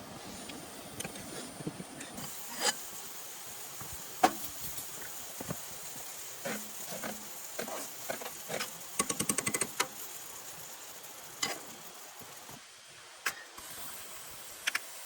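Steady hiss of rain with scattered sharp clicks and taps, and a quick run of about ten clicks a little over nine seconds in.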